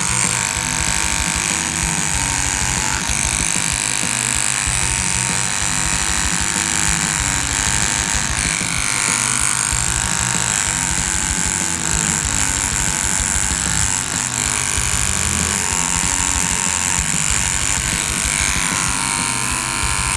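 Hornet version 2 tattoo machine buzzing steadily while tattooing, with background music over it.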